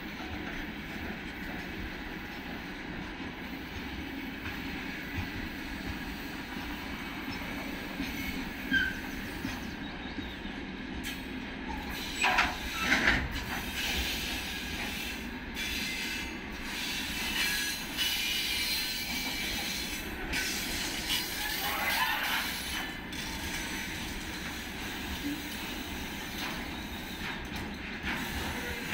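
Freight train wagons rolling past, a steady noise of wheels on the rails, with short high wheel squeals about twelve and twenty-two seconds in.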